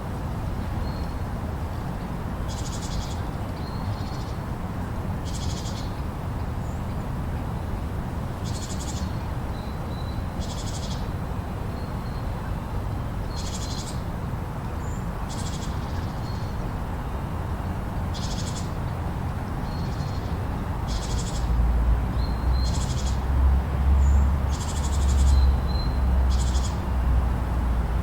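Blizzard ambience: a steady rush of wind-driven snowstorm noise, with low gusts swelling and buffeting for several seconds near the end. Short high-pitched chirps repeat every two to three seconds over the top.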